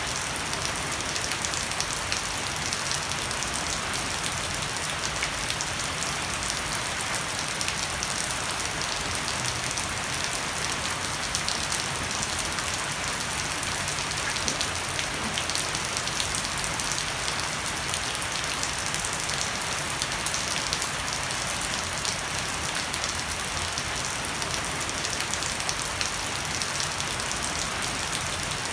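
Heavy rain falling steadily on a wooden deck and leafy shrubs, with water running off the edge of a thatched roof overhead.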